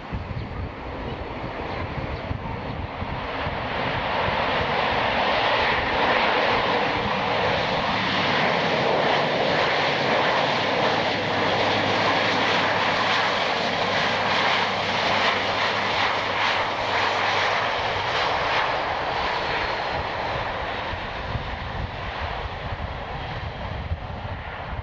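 Boeing 737-800 jet airliner's CFM56 turbofan engines, a steady jet roar passing by. It swells over the first few seconds, stays loud for about twelve, then fades, with a faint whine falling in pitch as it goes.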